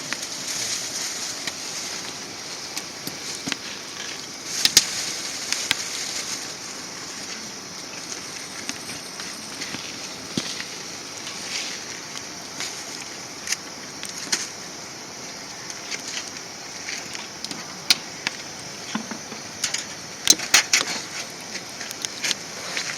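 Wood fire burning in a fire stove: a steady rush with scattered sharp crackles and pops, a quick cluster of pops near the end.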